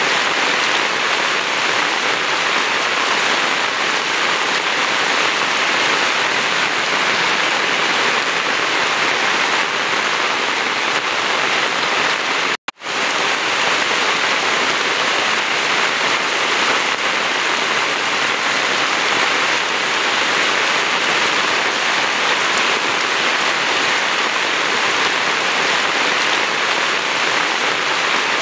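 Steady heavy rain, a dense even hiss with no thunder. The sound cuts out for a split second about halfway through, then resumes unchanged.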